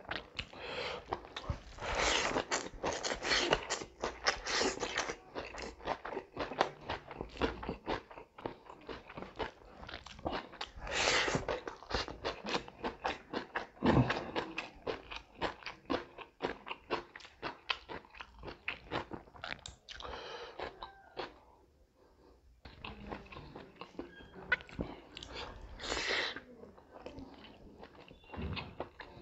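Close-miked wet chewing and lip-smacking of a man eating pork, rice and mango salad with his hand: a dense run of irregular mouth clicks with several louder stretches of biting, and a short lull about three quarters of the way in.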